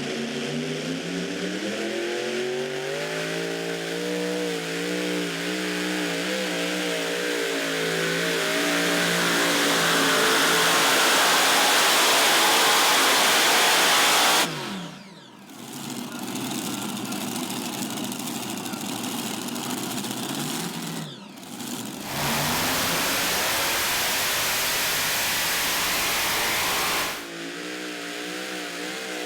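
Tractor-pull engine run: the engine climbs in pitch and loudness over the first dozen or so seconds to a loud full-throttle run. Loud engine noise continues through several abrupt cuts. Near the end it drops to a steadier, lower engine note.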